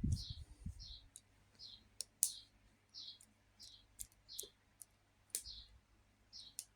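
Faint, repeated short high chirps from a small bird, about one every half second to second, with several sharp clicks in between.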